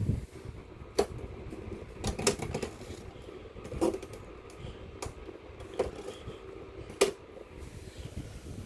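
2009 Bess electric fan running with a steady low hum, while about seven sharp clicks sound at uneven intervals.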